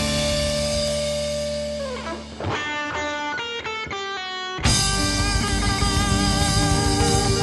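Live rock show band playing a hora medley. A held chord bends down, a quick run of single notes follows, and the full band crashes back in loudly past the halfway point.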